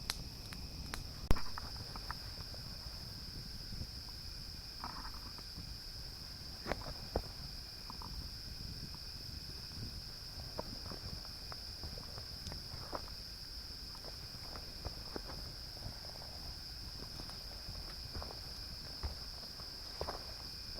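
Steady high-pitched chorus of crickets, with scattered sharp pops and crackles from a small campfire, the loudest about a second in.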